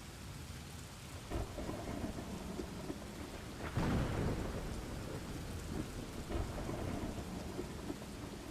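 Steady rain with thunder rumbling, loudest about four seconds in.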